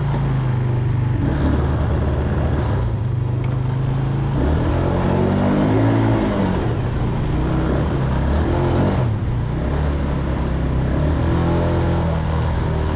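ATV engine running under way, its pitch rising and falling as it speeds up and slows, with a clear swell and drop about a third of the way in.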